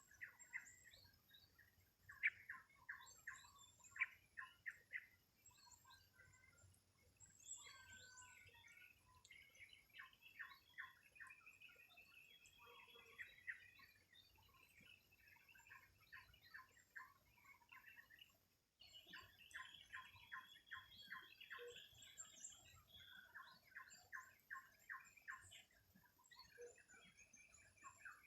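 Songbirds chirping and calling in rapid runs of short, repeated notes, several voices overlapping.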